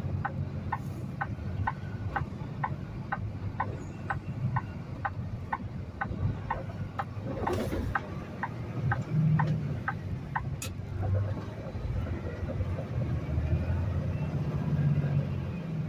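Steady low rumble of a Peterbilt semi's diesel engine heard inside the cab, with a turn-signal flasher ticking about twice a second as the truck merges onto the highway. The ticking stops about ten seconds in.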